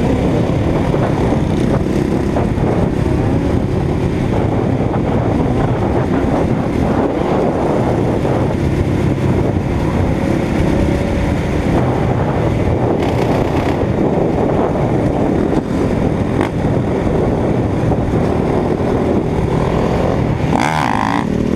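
Motorcycle engine running steadily under way, with continuous road noise.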